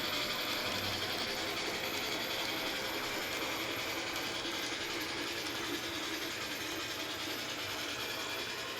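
Model NWSL mallet locomotive running with a train of log cars: a steady mechanical running noise with some hiss.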